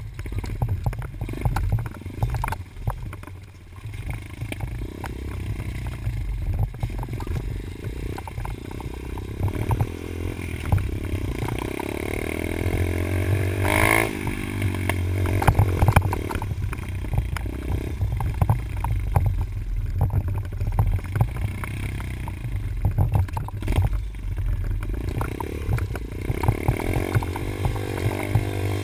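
Dirt bike engine revving up and down as the bike is ridden, with the clatter of the bike over rough ground and heavy low wind rumble on the GoPro's microphone. The engine climbs to a peak about fourteen seconds in.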